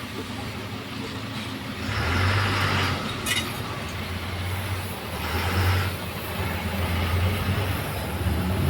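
A motor vehicle running with a steady low hum that grows louder twice for about a second each, with a sharp click near the middle.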